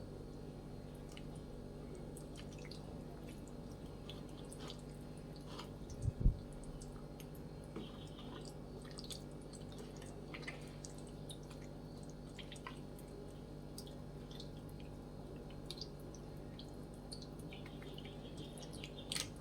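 Faint wet squishing and small clicks of hands rubbing masala paste into scored chicken pieces, over a steady low hum. A single low thump about six seconds in.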